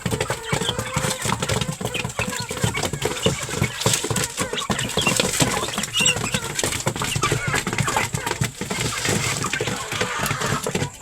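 Chickens and chicks pecking at scattered paddy grain: a dense, irregular run of quick taps, with short peeps and clucks among them.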